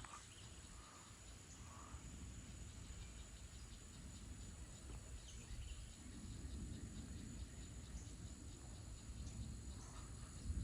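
Faint outdoor ambience: a steady high-pitched insect trill over a low rumble, with a few faint short calls.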